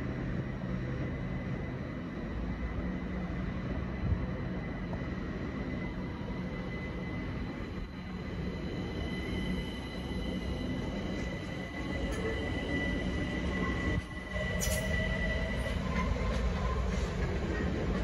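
Train wheels squealing with high steady tones over the rumble of rolling stock, growing louder after about fourteen seconds as an electric multiple unit approaches through the pointwork, with a short click near the end.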